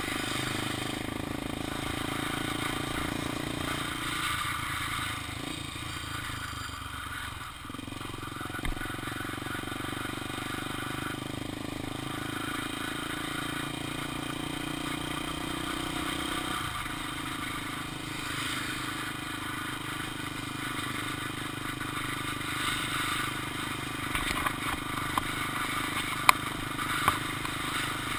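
Honda XR 250 Tornado's single-cylinder four-stroke engine running steadily as the motorcycle is ridden, with a few sharp clicks near the end.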